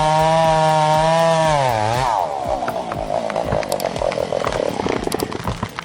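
Chainsaw engine running hard at a steady high pitch, then dropping in pitch about two seconds in as it bogs down under load in the cut. After that it saws on with a rougher, uneven sound.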